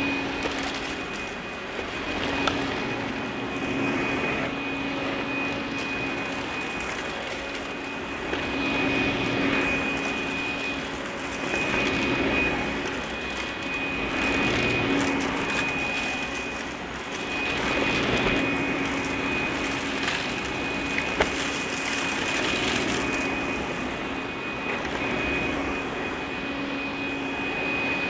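Russell Hobbs Athena 2 Pet upright vacuum cleaner running on a hardwood floor. Its motor gives a steady whine over a lower hum, swelling and easing every few seconds as it is pushed back and forth.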